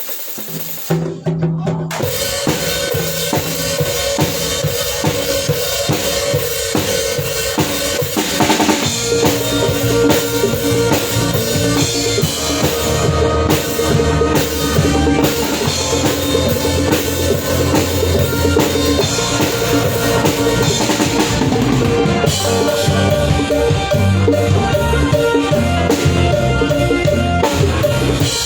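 Live band playing an instrumental piece, with a drum kit's kick and snare prominent under held bass and melody notes; the playing thickens about eight seconds in.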